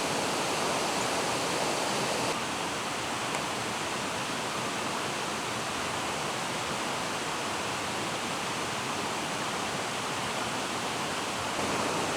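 Steady rushing of a mountain stream, even and unbroken, dropping slightly in level about two seconds in.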